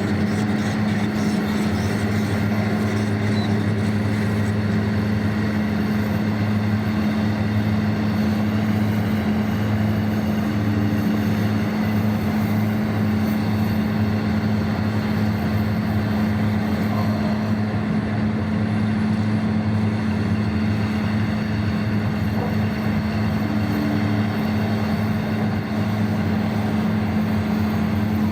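Large diesel engines of heavy mining machinery running with a steady, unchanging low hum.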